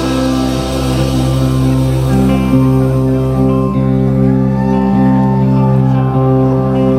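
Live country-rock band playing an instrumental intro: guitars and bass holding chords that change about once a second, with a sliding note in the middle, recorded by the camera's built-in mic.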